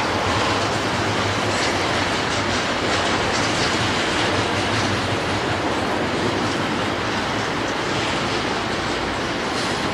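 Freight train cars rolling steadily past, their wheels clacking over the rail joints with a steady rumble and rattle.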